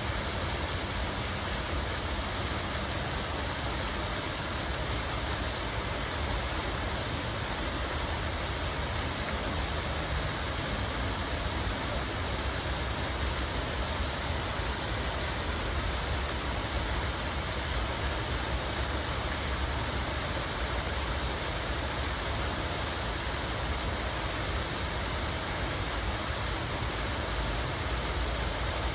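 Water flowing and splashing in a steady, unbroken rush, with a low rumble underneath.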